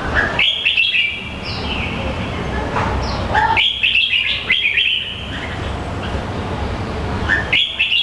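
A bird singing short bursts of quick, high chirping notes, three times: about half a second in, again from about three and a half to five seconds, and once more near the end.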